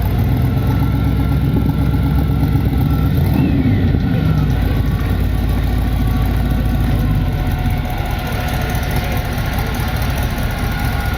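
Car engine running at idle, its pitch rising and falling briefly about three and a half seconds in.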